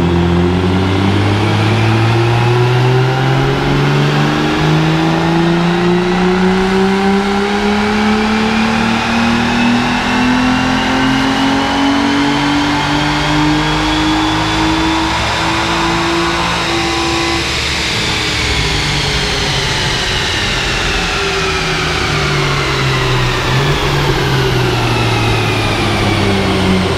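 Aston Martin DB9's V12 engine making a full-throttle baseline power run on a rolling-road dyno before tuning. The revs climb steadily for about seventeen seconds, then fall away as the run ends and the engine winds down.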